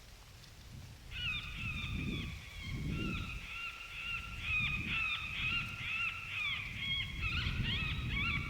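A chorus of coyote howls and yips, several voices overlapping and wavering, starting about a second in, over a low uneven rumble.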